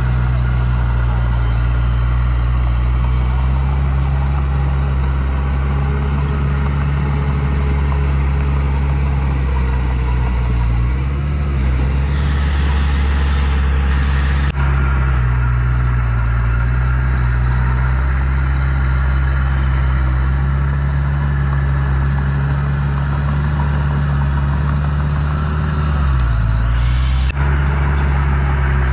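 Heavy diesel engine of earthmoving machinery running steadily, with its pitch dipping briefly about eleven seconds in and again near the end. A short hiss comes about twelve seconds in and again near the end.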